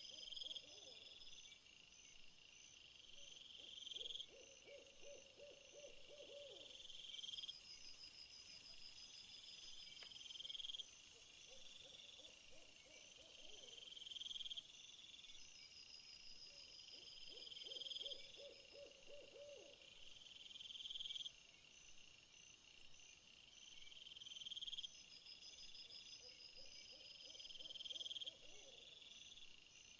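Faint night-time nature ambience. High insect calls repeat in a steady pattern of rising chirps every few seconds, with a louder high hiss for several seconds in the middle. A low trilling animal call comes back about every four seconds.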